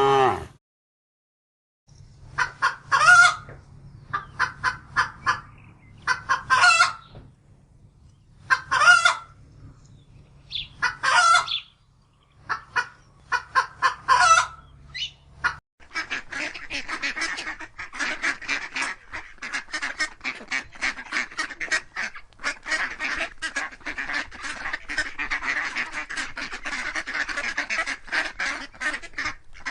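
Geese or ducks (domestic waterfowl) calling: loud calls in short groups, separated by pauses, over a low steady hum for the first half. At a sudden cut about halfway through, it changes to a whole flock calling continuously.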